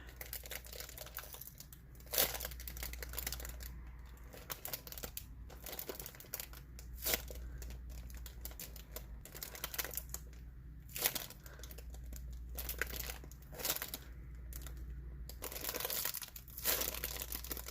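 Hands repeatedly squeezing and releasing a homemade squishy bread bun, giving soft crinkling rustles every second or so over a steady low hum.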